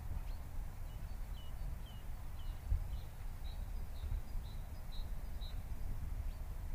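Forest ambience: a steady low rumble under a string of short, high chirps from a small bird, repeated about twice a second for most of the stretch before stopping near the end.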